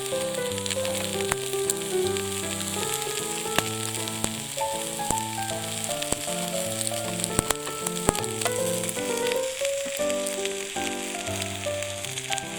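Food frying with a steady sizzle and occasional pops, under background music with a melody over bass notes.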